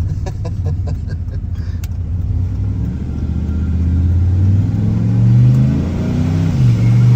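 Cammed twin-turbo LS V8 accelerating under load, its note rising for several seconds, dipping briefly about six and a half seconds in as a gear changes, then pulling on steadily.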